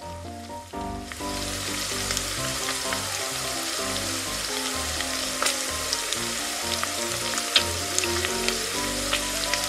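Sizzle of chicken deep-frying in hot oil, with scattered crackles and pops, starting about a second in. It is dubbed over toy play-cooking, so it is a sound effect. A light tune with stepping notes plays underneath.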